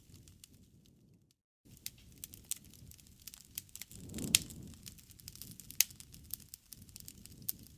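Campfire burning: wood crackling with scattered sharp pops over a low rumble of the flames. The loudest pop comes about four seconds in. The sound cuts out completely for a moment about a second and a half in.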